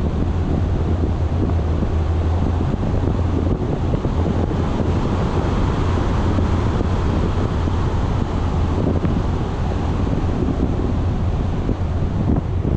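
Wind buffeting a moving action camera's microphone, a steady loud rush, over a low constant rumble from the vehicle it travels on.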